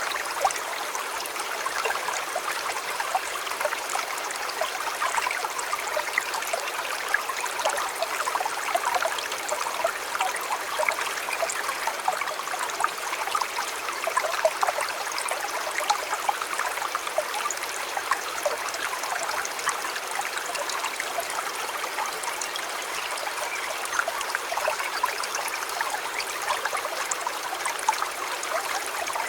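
A shallow stream or river running steadily over stones, a continuous babble of many small splashes and trickles.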